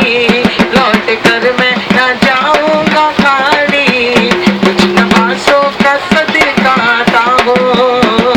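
Men's voices singing an Urdu devotional naat, backed by duff frame drums beating a steady, quick rhythm.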